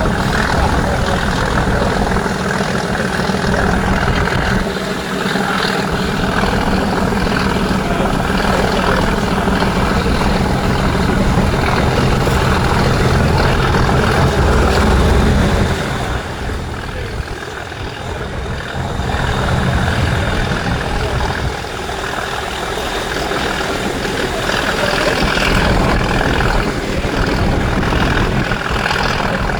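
Class 37 diesel locomotive under hard power, its English Electric V12 engine running loud and steady; the engine note drops back about halfway through, then builds again.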